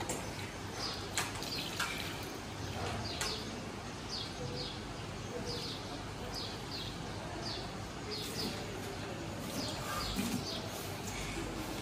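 Small birds chirping in short high chirps, often in pairs, repeated over a steady street background for several seconds, thinning out near the end.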